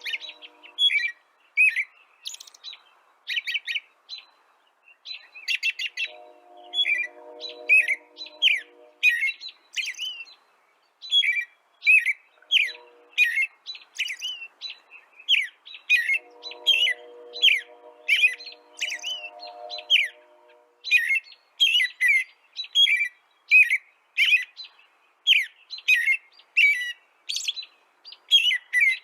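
Small songbirds chirping continuously, many quick high notes from several birds overlapping. A lower, steadier hum-like tone comes and goes underneath three times, for a few seconds each.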